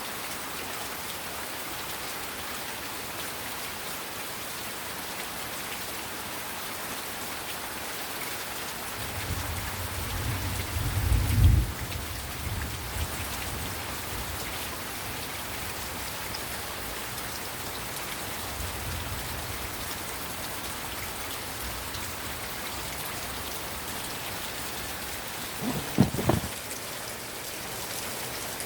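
Heavy rain falling steadily. A low rumble of thunder builds to a peak about eleven seconds in and fades, and a short, sharp thump comes near the end.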